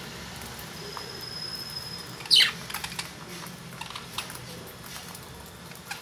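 Caged lovebirds: one sharp, quick chirp sliding downward in pitch about two seconds in, then small scattered clicks of beaks cracking millet husks.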